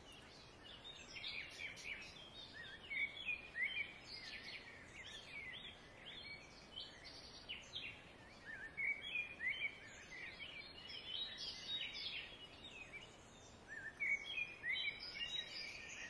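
Birds chirping: many short, high, quick calls that sweep up or down in pitch, some overlapping, over a faint steady hiss, thinning out briefly around the middle and again near the end.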